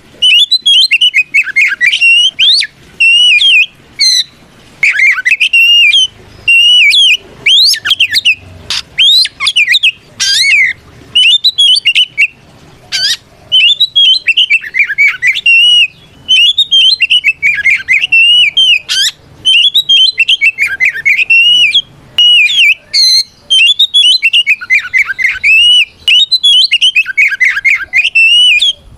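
Oriental magpie-robin (kacer) singing a loud, rapid run of varied whistles and chattering notes in phrases with brief pauses. This is the full open 'ngeplong' challenge song of a bird calling out a rival in fighting mood.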